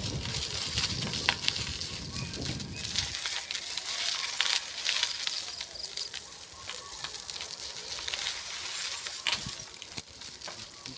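Riding a bicycle: wind rumbles on the microphone and cuts off about three seconds in. After that a steady hiss with scattered light clicks and rattles carries on.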